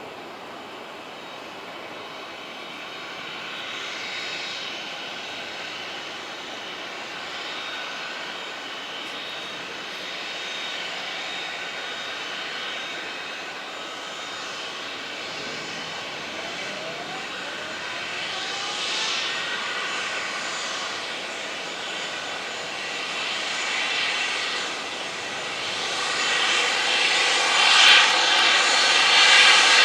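Airliner engines whining and rushing, growing steadily louder and loudest near the end as the aircraft comes closer, with a tone gliding upward about halfway through.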